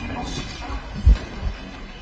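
Low room noise in a pause between speakers, with faint murmuring near the start and a single low thump about a second in.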